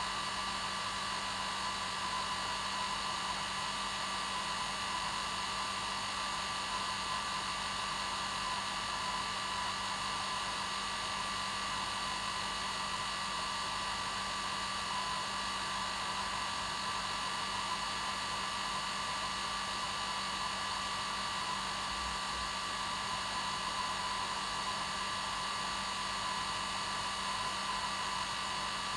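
Hair dryer running steadily, an unbroken blowing whir with a constant whine over it, played as white noise to lull a baby to sleep.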